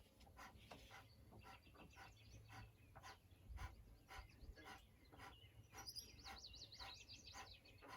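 Kapalabhati breathing: short, forceful exhales through the nose in a quick, even rhythm, a little over two a second, each followed by a passive inhale. A bird sings a rapid warbling trill near the end.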